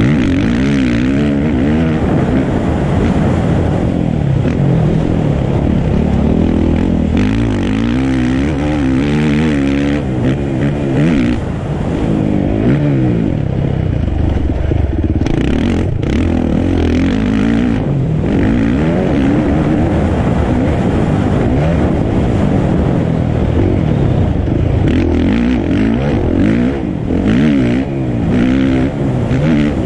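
Motocross dirt bike engine revving hard, its pitch climbing and dropping over and over as the rider works the throttle and shifts.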